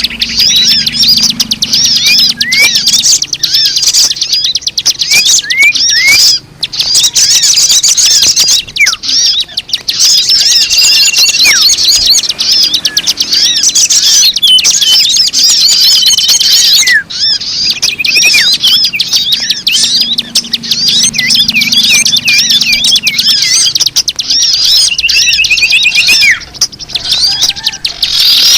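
A bird-lure recording of many small birds chirping and trilling at once: a dense, continuous, high-pitched twittering chorus with short rising whistles mixed in, pausing briefly twice.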